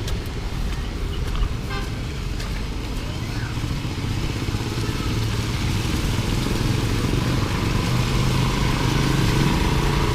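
A motor vehicle engine running steadily over a constant hiss of street noise, growing louder toward the end.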